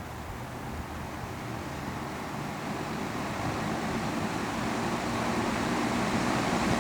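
Vintage Superlectric 20-inch box fan (model 2023B) with a plastic motor and a Lakewood blade set, starting on low and slowly spinning up. Its steady hum and air noise grow louder throughout. The fan is slow to come up to speed after six years unused, its bearings freshly oiled.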